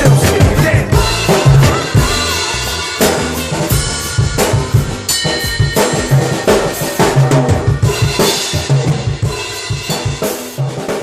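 Drum kit played in a funky hip-hop groove, with dense bass drum, snare and rimshot strokes, over a recorded hip-hop track with a pitched bass line; it gets gradually quieter toward the end.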